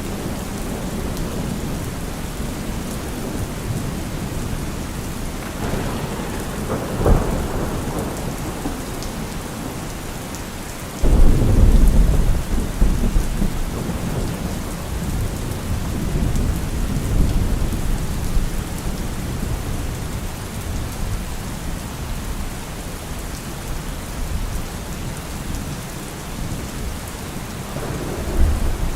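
Heavy rain falling on a car roof in a thunderstorm, with rolling thunder: a rumble with a sharp crack about seven seconds in, a sudden loud thunderclap about eleven seconds in that rolls away over several seconds, and another rumble building near the end.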